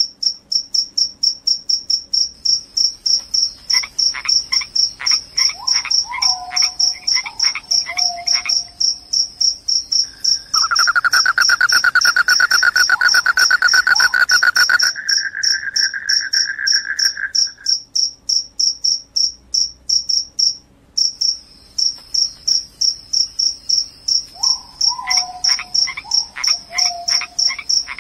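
Field crickets chirping in a steady loud rhythm of high-pitched pulses, about three a second. A lower, louder continuous trill joins for several seconds in the middle, and shorter lower calls that drop in pitch come and go.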